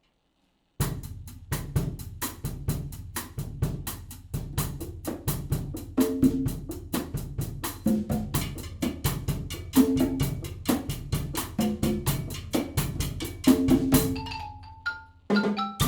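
Percussion ensemble drums playing a fast, steady rhythm of dense strikes, starting about a second in, with pitched drum tones joining about halfway and a short break near the end.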